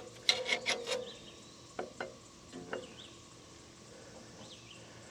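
Scraping and rubbing handling noise for about a second, then two or three light clicks, fading to low background noise.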